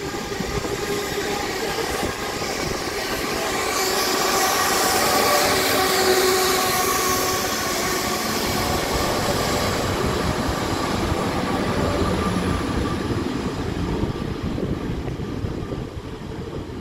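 Great Western Railway Hitachi Intercity Express Train running past along the platform: a rumble of wheels on the rails with a steady hum from the train. It is loudest about four to seven seconds in and fades near the end as the train draws away.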